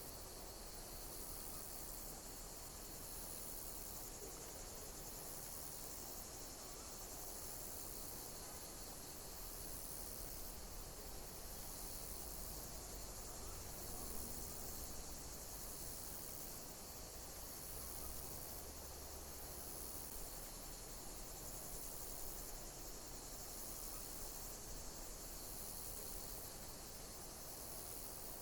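Insects chirping in a dense, steady, high-pitched chorus, with a phrase that repeats about every two seconds.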